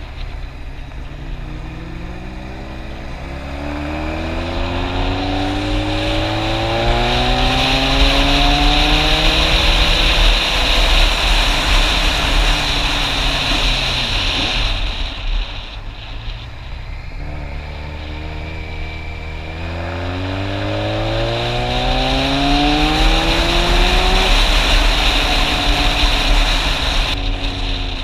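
Motorcycle engine accelerating up through the gears twice, its pitch climbing in steps with each shift, then easing off in between. Steady wind rush over the microphone.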